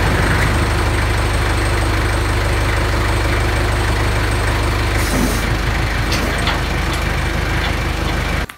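Kubota L35 tractor's diesel engine running steadily to drive the backhoe hydraulics; its note changes about five seconds in, and the sound cuts off abruptly near the end.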